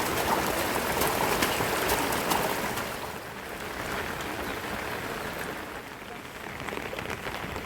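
Rain falling, a steady patter with separate drops ticking through it; it gets quieter about three seconds in.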